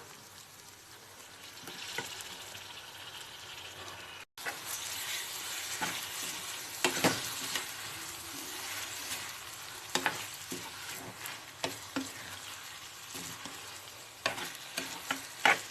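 Chicken pieces sizzling as they fry in hot oil with onions and ginger-garlic paste, while a spoon stirs them and knocks against the pan now and then. The sound breaks off for a moment about four seconds in, and the sizzle is louder after it.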